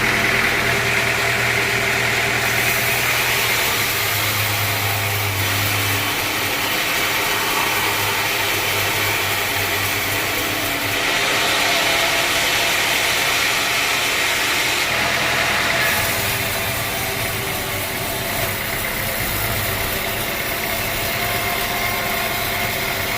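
Sawmill machinery running steadily, a low engine hum under a constant higher whine. The sound changes abruptly every few seconds.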